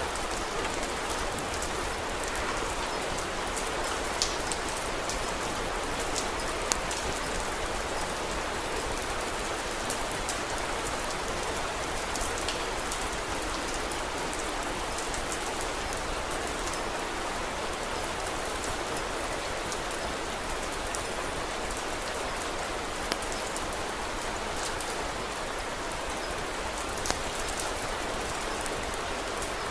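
Steady rain falling, with a few sharp crackles and pops from a wood fire standing out now and then.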